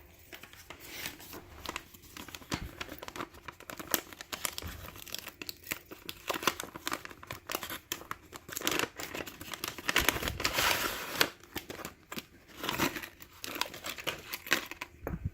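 Wrapping crinkling and rustling in hands, with some tearing, as items are unwrapped from a package: irregular crackles throughout, busiest past the middle.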